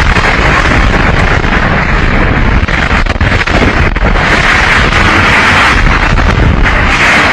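Violent tornado wind blasting the microphone: a loud, continuous rushing hiss over heavy rumbling buffeting, swelling now and then.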